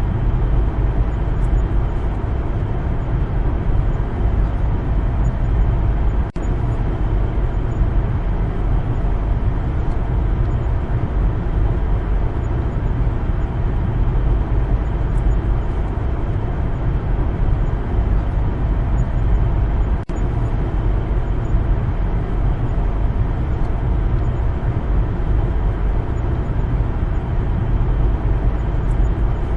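Steady low rumble of a car driving along a road: engine and tyre noise. It dips out briefly twice, about six seconds in and again about twenty seconds in.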